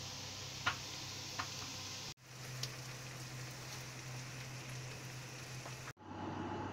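Garlic and onions sizzling in hot oil in a pan on an induction cooker: a steady frying hiss over a low hum, with a couple of sharp ticks about a second in. The sound drops out briefly twice, and in the last second a rougher noise takes over.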